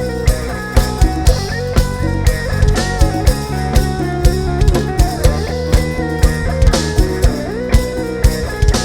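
Live band playing an instrumental passage: a drum kit keeps a steady beat under bass and a lead melody line.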